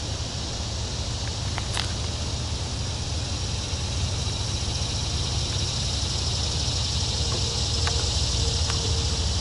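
Distant diesel locomotives of an approaching freight train, a low rumble that grows slowly louder, over a steady high hiss of summer insects.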